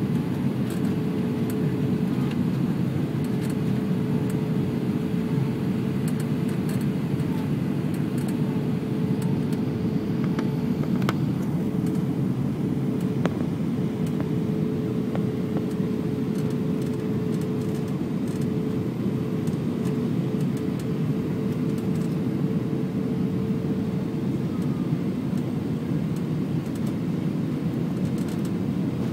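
Airbus A320 cabin noise in flight: a steady low rush of airflow and engine drone with a constant hum tone running through it.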